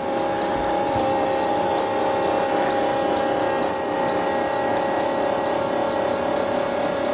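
Dashboard warning buzzer of a 1996 International 7.3 diesel school bus beeping evenly, about twice a second, with the key on and the engine not yet started. A steady hum sounds underneath.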